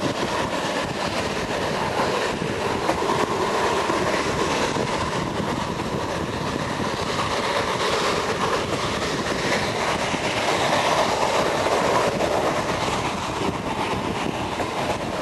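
Steam-hauled train under way behind locomotive BDZ 46.03, a steady, continuous running noise of wheels and motion.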